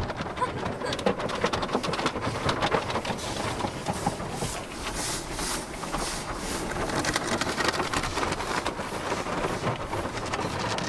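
Automatic car wash's cloth brushes and water spray working over the car, heard from inside the cabin: a steady wet rush thick with quick slaps and patter on the body.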